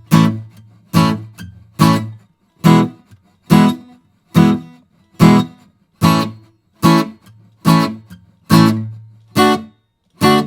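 Guitar playing a basic reggae rhythm: short chord strums at an even pace, a little more than one a second, each cut off quickly.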